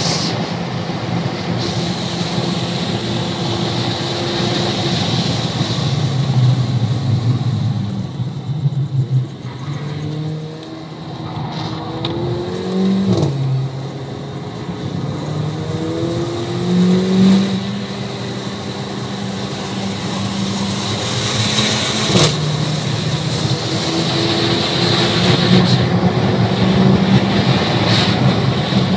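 Completely stock Mercedes CLA45 AMG's turbocharged four-cylinder engine heard from inside the cabin on a hot lap. It revs up through the gears with repeated quick drops in pitch at each shift, eases off for a while about eight to eleven seconds in, then pulls hard again, over steady wind and tyre noise.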